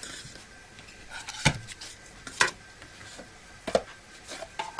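Tarot cards handled on a table: a few sharp taps and light rubbing as cards and the deck are put down and moved, with the loudest taps near the middle.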